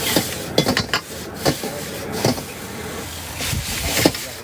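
Stir-frying in a wok: a metal spatula clanks and scrapes against the pan in irregular strokes, over a steady noisy roar.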